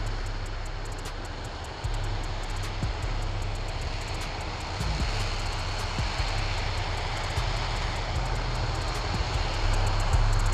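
RS-25 liquid-hydrogen rocket engine firing in a hot-fire test: a steady, dense roar with a heavy low rumble, stepping up in loudness about two seconds in.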